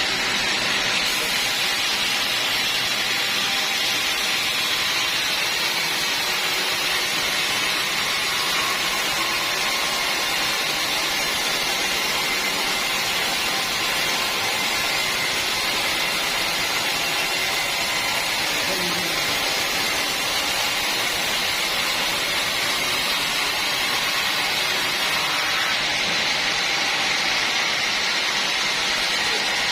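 Sawmill saw running steadily, a continuous hiss with a faint high whine and no break.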